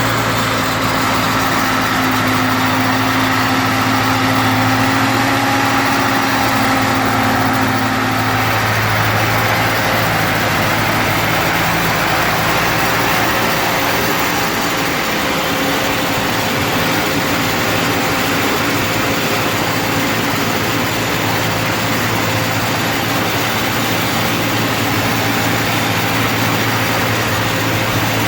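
1942 Ford 9N tractor's four-cylinder flathead engine running steadily at idle after the ignition points work.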